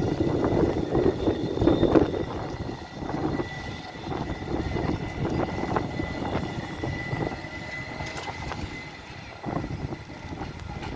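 Tram running past on street rails, a rumble with wheel rattle that is loudest in the first two seconds and then fades, with a thin steady high whine throughout.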